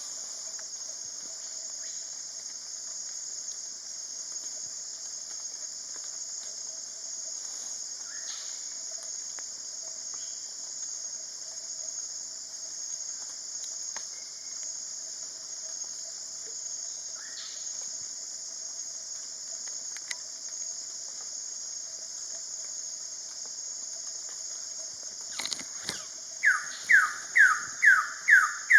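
Steady high-pitched insect chorus of the forest, with two faint falling bird calls. Near the end a Wilson's bird-of-paradise gives a loud run of about six down-slurred notes, roughly two a second.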